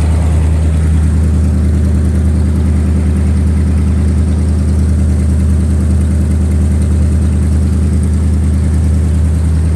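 Cockshutt 555 combine's Chrysler industrial 318 V8 running steadily at idle through a flex-pipe exhaust, warming up after a cold start.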